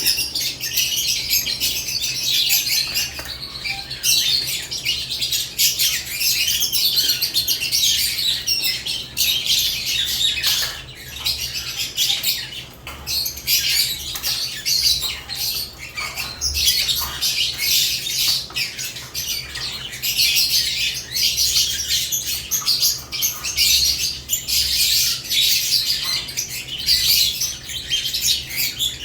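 A cage of lovebirds chirping and squawking continuously, many high, sharp calls overlapping into a dense chatter.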